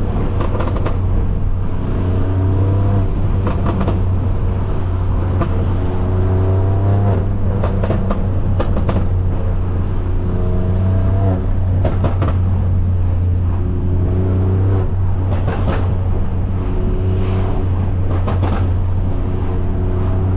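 BMW S55 twin-turbo straight-six with catless downpipes and a straight-through, open-valved exhaust, running with a steady deep drone. The note rises in pitch several times and breaks off each time, with a few short sharp cracks along the way.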